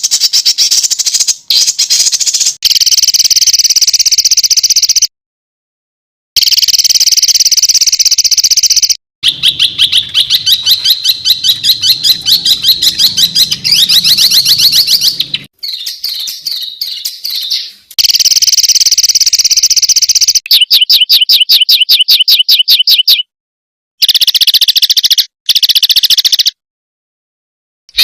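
Clips of songbird song spliced one after another: loud, dense, high-pitched chattering and rapid-fire trills of fast repeated notes. Sudden silent gaps fall between the clips.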